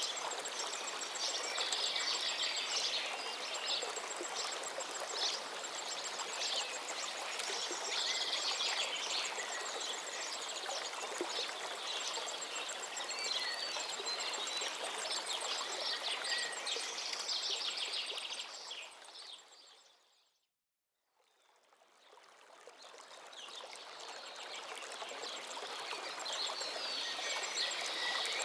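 Outdoor ambience of many birds chirping over a steady hiss of background noise. It fades out to silence about twenty seconds in, then fades back in.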